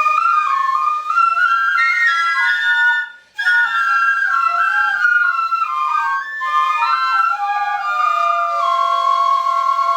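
Ensemble of shinobue, Japanese bamboo transverse flutes, playing a melody in several parts, with a short breath break about three seconds in. Near the end they settle on a long held chord.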